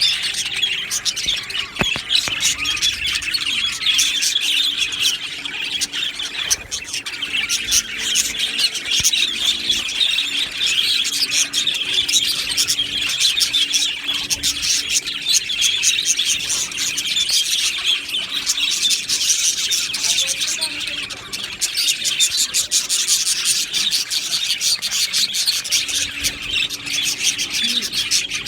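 A flock of budgerigars chattering and chirping all at once, a dense, unbroken chorus of many overlapping high calls.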